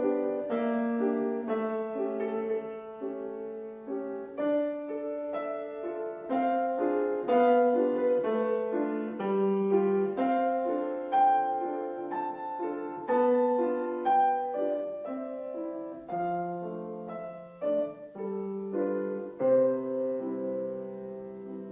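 Piano played solo: a moderate run of struck notes and chords in a slow classical style, closing on a held chord that rings and fades near the end.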